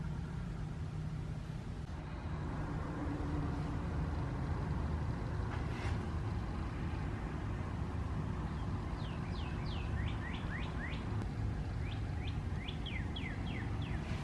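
A steady low rumble, with a bird giving two quick runs of short downward-sweeping chirps in the second half.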